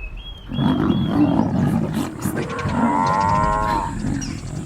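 Lions growling and snarling, as in a fight, with one long drawn-out call about three seconds in.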